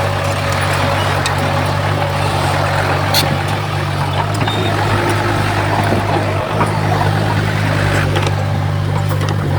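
Komatsu D51PX bulldozer's diesel engine running steadily under load, with a few sharp clanks from the machine.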